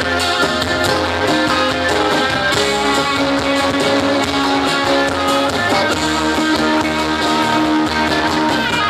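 Live band music, an instrumental passage led by guitar, played steadily.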